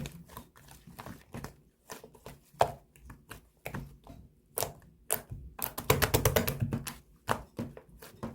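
Cream slime being squished and pressed by hand, giving sticky clicks and pops, with a fast run of crackling clicks about six seconds in.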